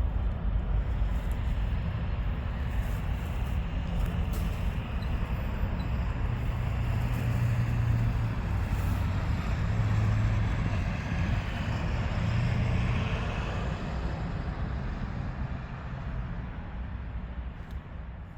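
Train rolling past: a steady rumble with a low drone that swells in the middle and fades away near the end.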